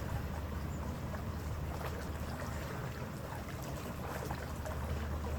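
Steady low rumble of a harbour ferry's engines heard on board, with an even hiss over it.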